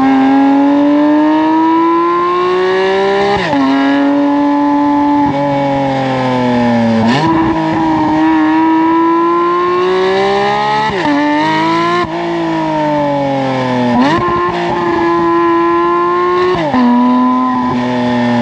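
Porsche 992 GT3 RS's naturally aspirated 4.0-litre flat-six through a titanium valved exhaust, being driven hard. Its pitch climbs and falls through the revs and jumps sharply several times, at the gear changes.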